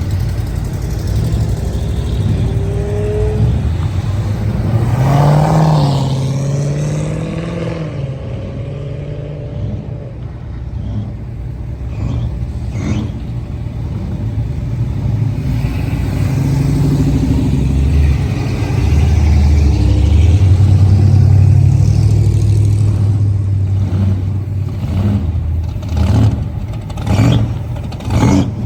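Car engine running, with a rev that rises and falls about five seconds in, then a steady low drone, and a few sharp clatters near the end.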